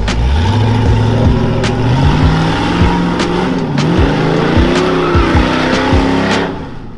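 A truck engine revving hard, its pitch climbing about a second in, wavering and dipping near the middle, then fading out near the end.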